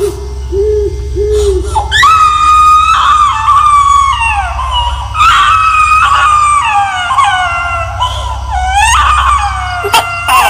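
Eerie horror-effect crying: long, high, drawn-out wails that slide downward in pitch, three in a row, over a steady low drone.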